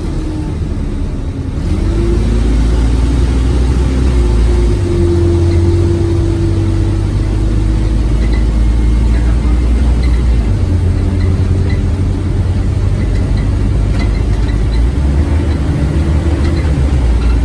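Scania OmniCity bus's diesel engine being driven hard under acceleration: a loud, heavy low drone with tones gliding in pitch. The drone shifts in level about every five seconds.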